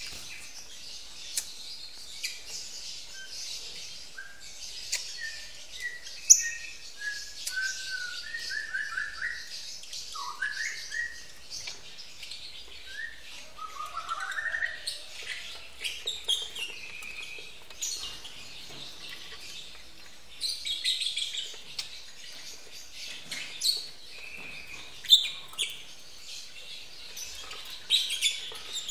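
Lovebirds in an aviary chirping and chattering continuously, shrill and high-pitched, with a run of lower, clearer whistled notes through the first half.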